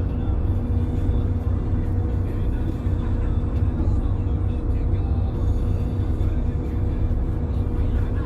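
A boat engine running steadily: a constant low rumble with an unchanging hum.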